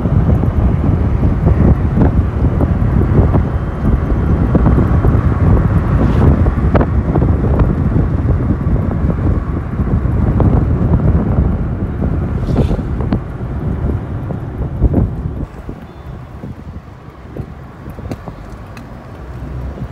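Wind buffeting the microphone on a moving motorcycle taxi, a loud, rough rumble mixed with the road and motorcycle noise. It eases about three quarters of the way through, as if the bike slows.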